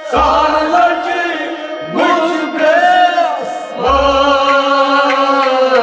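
A song in Kashmiri: a singer holding long sung lines over instrumental accompaniment. A low drum stroke lands just after the start and again about four seconds in.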